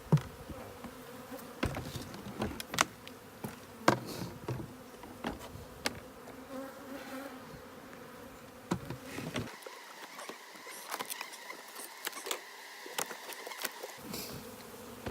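Honey bees buzzing in a steady swarming hum around an opened hive, with scattered sharp clicks and knocks of handling throughout.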